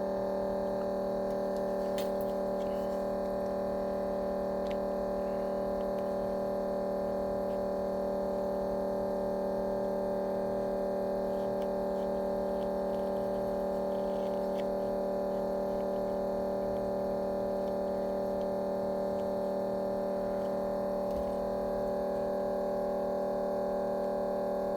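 A steady hum made of several fixed tones that does not change, with a few faint light clicks over it.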